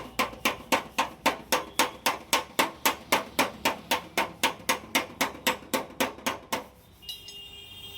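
A hammer strikes a car's steel fender panel in a steady rhythm of about four blows a second, knocking out dents. The blows stop about six and a half seconds in, and a faint high steady tone starts near the end.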